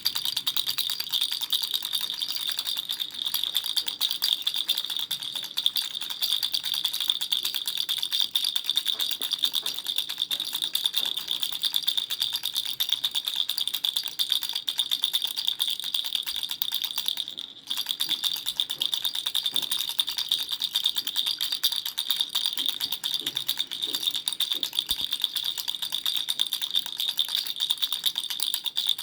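Baby rattle shaken continuously, a fast, dense rattling of small pieces inside. It stops for a moment a little past halfway, then carries on.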